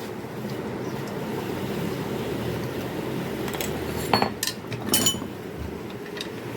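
A few light clinks of small hard objects over a steady low background noise.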